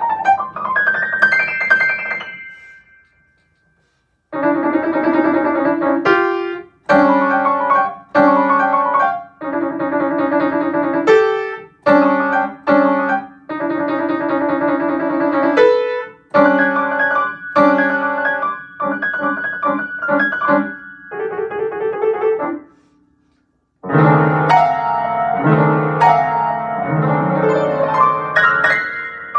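Solo piano playing an impressionistic study. A phrase dies away into a brief silence, then comes a run of separately struck chords with short gaps between them. After another pause near the end, a fuller passage starts with low bass notes.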